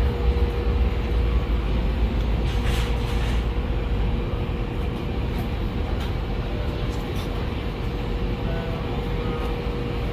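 Steady low rumble and hum of an airliner cabin parked at the gate during boarding, with a constant mid-pitched tone running through it and a few faint knocks. The low rumble eases a little about halfway through.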